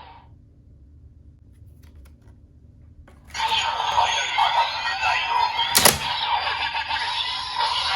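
A few faint clicks, then about three seconds in a CSM Decadriver ver.2 toy belt starts playing its Hibiki card audio: a loud electronic voice-and-effects sequence over music, with one sharp hit near six seconds in.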